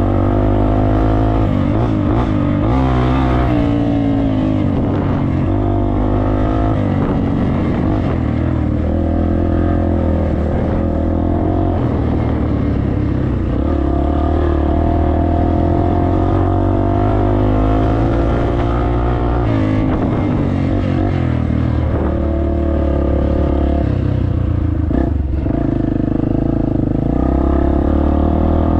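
Dirt bike engine running under load while being ridden on a trail, its pitch rising and falling as the throttle opens and closes and the gears change.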